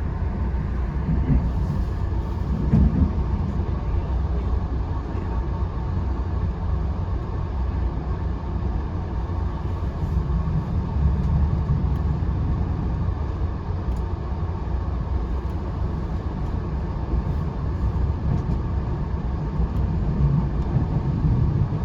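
Passenger train running at speed: a steady low rumble of wheels on rail and car noise, with no distinct rail-joint clicks.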